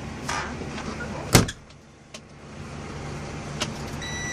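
A sleeper-cab clothes closet door shutting with a single sharp bang about a second and a half in, after a brief rustle, over a steady low hum from the cab.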